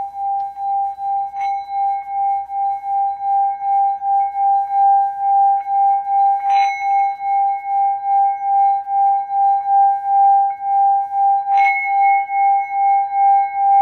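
Singing bowl sounding a long, steady ringing tone that pulses about three times a second. Three sharp touches, about a second and a half, six and a half, and eleven and a half seconds in, briefly brighten its higher overtones.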